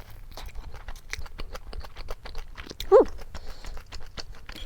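Close-up eating sounds, chewing with many small clicks, and a short falling meow from a cat about three seconds in.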